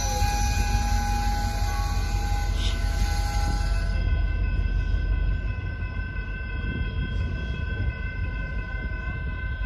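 Train running on the tracks: a low rumble under several steady tones. A high hiss cuts off about four seconds in.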